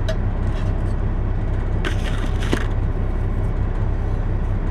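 Steady low hum of a semi truck's idling engine heard from inside the cab, with a brief burst of rustling and handling noises about two seconds in.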